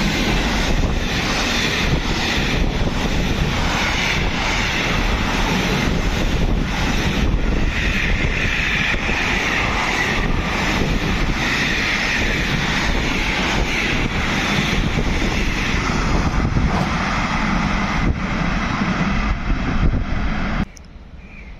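A train passing through the station at speed: a loud, steady rush of wheels on rail and moving air, with regular faint knocks, cutting off suddenly near the end.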